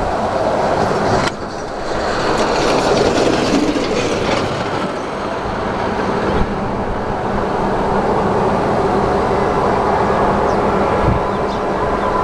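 Distant freight train approaching along the line, a steady rumble.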